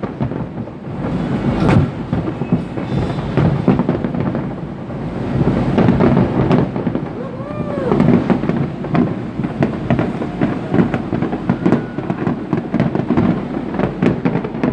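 Fireworks display going off continuously: many sharp bangs and crackles over a low rumbling boom, with a brief tone rising and falling about seven and a half seconds in.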